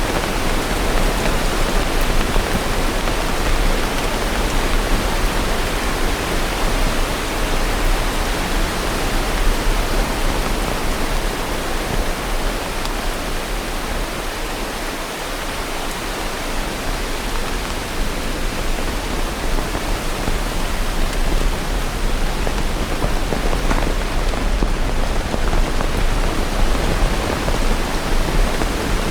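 Steady rain falling, an even, continuous hiss that dips slightly about halfway through.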